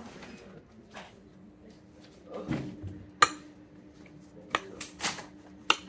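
Cutlery clinking against a plate while eating: one sharp clink about three seconds in and several more knocks near the end, over a faint steady hum.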